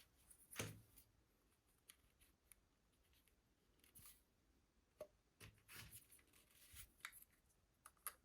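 Faint, scattered clicks and rustles of hands handling packaging and small plastic parts, the loudest click about half a second in.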